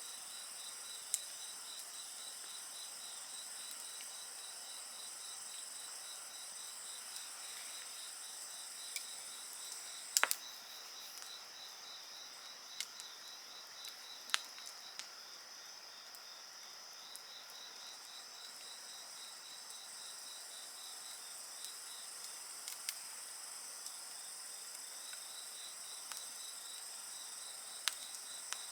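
Insects chirping steadily in several high-pitched trills, one of them a fast pulsing trill, with scattered crackles and pops from a wood bonfire; the loudest pop comes about ten seconds in.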